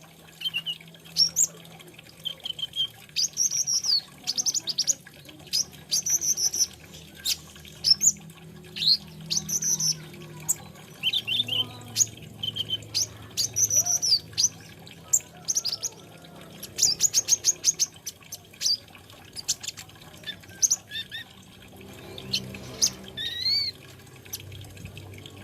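Kolibri ninja (brown-throated sunbird) singing: a rapid, varied run of high thin chirps, quick trills and short rising and falling whistles with brief pauses between phrases.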